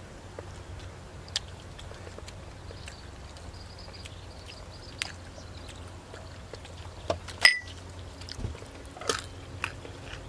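Close mouth sounds of biting and chewing crisp raw vegetables: scattered small crunches and clicks, with one sharp crunch about seven and a half seconds in, over a steady low hum.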